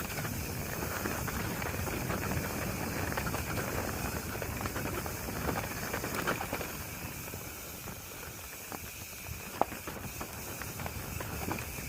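Mountain bike rolling over a rough dirt trail: tyre noise with a steady patter of small rattles and ticks, and one sharp knock about two-thirds of the way through.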